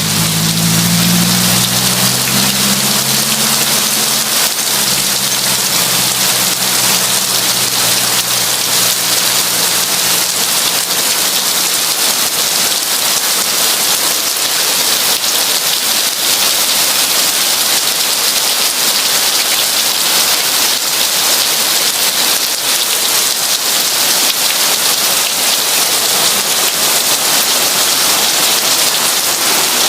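Heavy rain pouring steadily as an even hiss. A low engine hum carries over from just before and fades away during the first ten seconds.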